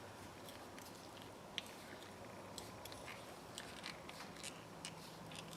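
Faint, scattered clicks and taps of a steel adjustable wrench being handled and examined, spaced irregularly about a second apart.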